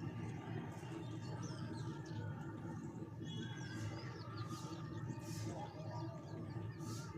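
Small birds chirping in short calls over a steady low background rumble.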